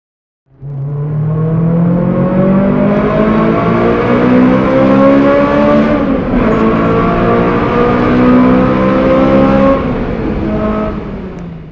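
Honda S2000's four-cylinder engine through an aftermarket Greddy exhaust, accelerating hard. It revs rising steadily in pitch, drops at an upshift about six seconds in, climbs again, then eases off near the end.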